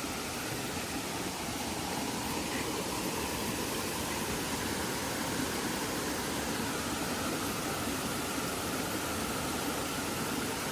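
Steady rushing of a stream, an even hiss of flowing water.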